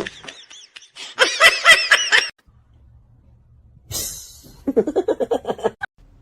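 People laughing in two bursts of rapid pulsed laughter, one about a second in and another near the end, with a short noisy sound just before the second burst.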